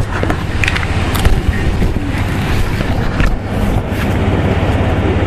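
Interior of an Ibara Railway diesel railcar: the engine's steady low drone, with scattered clicks and knocks from the running gear and car body.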